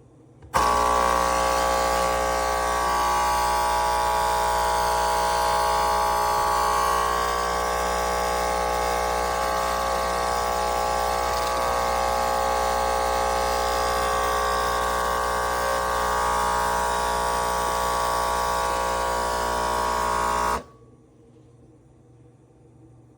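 Pod coffee machine's vibratory pump buzzing steadily as it pumps water through a capsule to brew. It starts abruptly and cuts off suddenly after about twenty seconds, when the brew ends.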